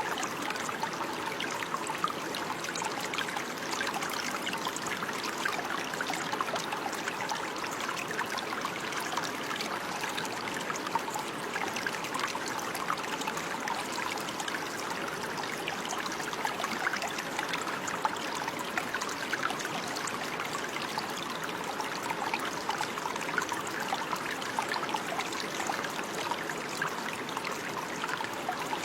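Running water of a stream, a steady babbling and trickling with no change in level.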